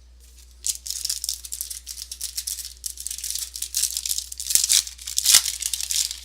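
Foil trading-card pack wrapper being torn open and crinkled by hand, a dense rapid crackling and rustling that starts about a second in and stops just before the end.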